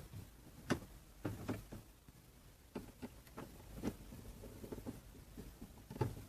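Irregular clicks and light knocks, about nine in all and spaced unevenly, of a plastic keyboard and its parts being handled during repair work.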